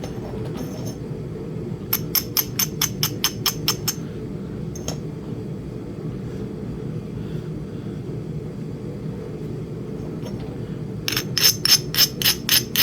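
Two quick runs of light, glassy taps of knapping tools on a small Flint Ridge chert biface, about four a second, the second run louder. A steady low hum runs underneath.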